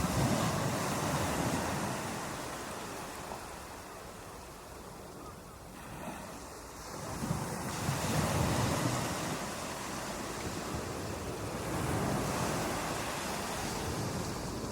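Ocean surf breaking on a beach: a wave crashes right at the start and washes back, then the next swells in about seven seconds later, with wind on the microphone.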